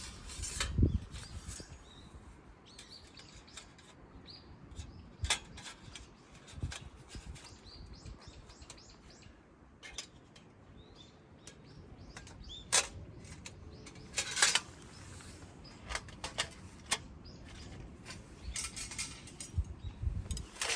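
Birds chirping in short high calls over a steady outdoor hiss, broken by irregular sharp knocks and clicks, the loudest about a second in and around the middle.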